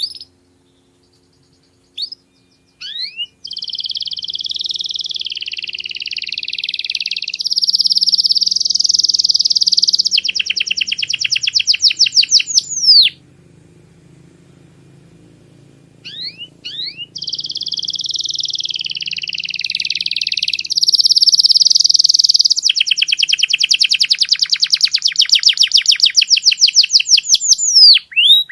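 Domestic canary singing two long song phrases, each opening with a few short rising notes, running into a rolling trill and ending in a fast run of repeated sweeping notes, with a pause of about three seconds between the phrases.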